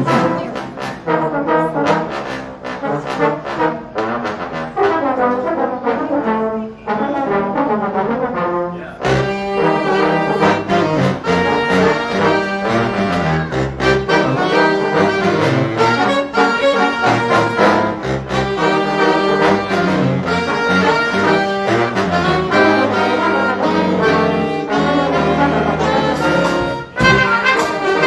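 High school jazz big band playing a brass-heavy up-tempo tune, with trombones and trumpets prominent. A lighter passage gives way to the full band about nine seconds in.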